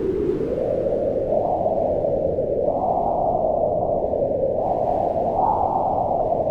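Wind blowing in a steady low rush that swells and rises in pitch in two gusts, about two and a half and five and a half seconds in, then eases back.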